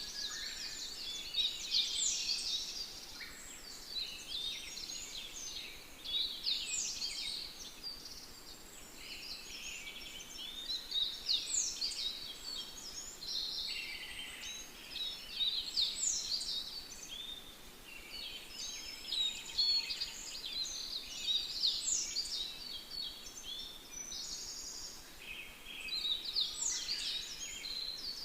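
Several birds singing at once, a steady chorus of overlapping high chirps, whistles and trills.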